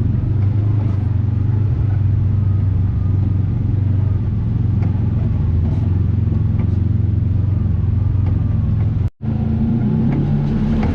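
Vehicle engine running at a steady pace while driving, heard from on board, with a brief sudden cut-out about nine seconds in.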